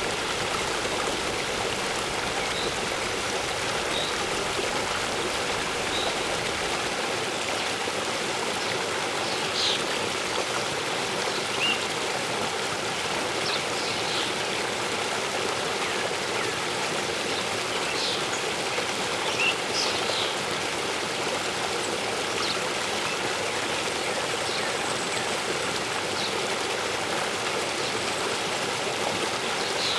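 Waterfall and stream water rushing steadily, with occasional short, faint bird chirps over it.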